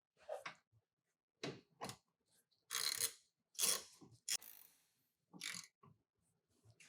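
Ratchet turning an 8 mm hex-bit socket in short separate strokes, clicking and rasping, while the front brake caliper's mounting bolts are driven in.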